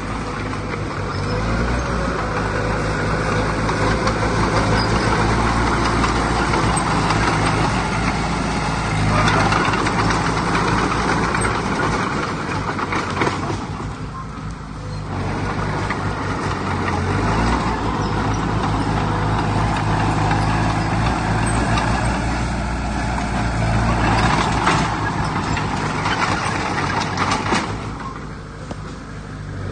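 Diesel engine of heavy earthmoving machinery working, its sound swelling and easing as the load changes, with a brief drop about halfway through.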